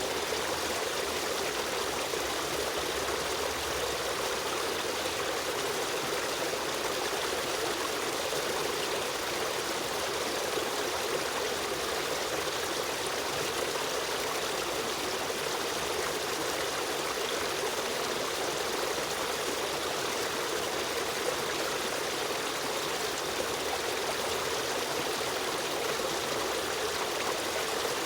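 River stream running steadily, a constant rush of flowing water with a brighter trickling texture over it.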